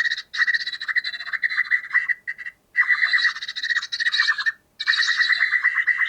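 A bird's rapid pulsed call from a field recording, repeated in runs of one to two seconds with short silent gaps between them. The low end and background noise have been de-noised and EQ'd away.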